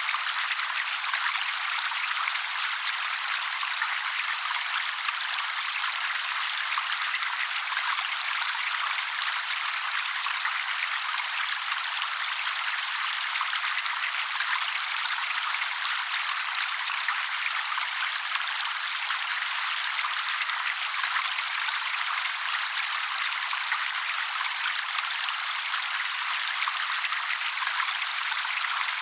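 Steady trickling, splashing water with no bass and no bird calls over it.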